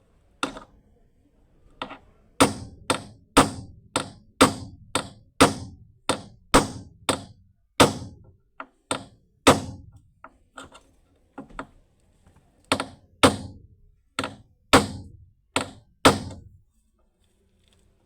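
A series of sharp hammer blows, roughly two a second, with a few lighter taps near the middle, during work to remove and replace an aircraft bracket.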